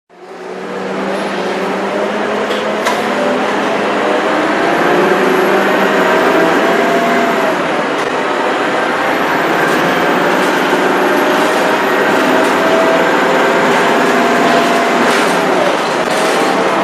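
Scania K230UB bus's diesel engine pulling under acceleration, its tones climbing and dropping back as the ZF automatic gearbox shifts. A thin, high turbo whistle rises with it, dips about halfway through and climbs again.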